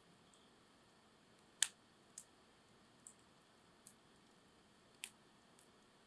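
Campfire wood crackling: a handful of sharp, separate pops over a quiet background, the loudest about a second and a half in and another strong one near the end.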